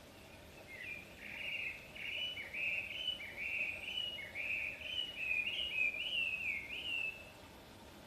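A bird singing a long run of short chirping notes, about two a second, many rising then dropping in pitch, stopping shortly before the end.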